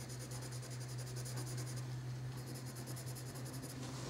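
Colored pencil shading on drawing paper: a faint, scratchy rasp of the lead over the paper's tooth. Under it runs a steady low electrical hum.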